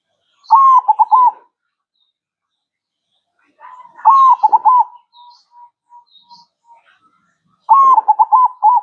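Zebra dove (perkutut) singing its cooing song: three short phrases of quick rolling coos, about three and a half seconds apart, with a string of soft short coos after the second phrase.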